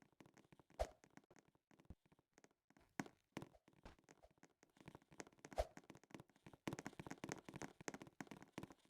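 Near silence broken by scattered faint clicks and knocks, a few at first and more frequent over the last two seconds.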